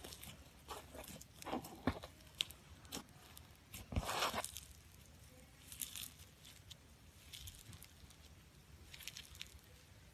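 Pink floam slime full of foam beads being kneaded and stretched by hand: faint, irregular crackling and crunching of the beads, with sticky tearing as the slime pulls apart. The loudest squish comes about four seconds in.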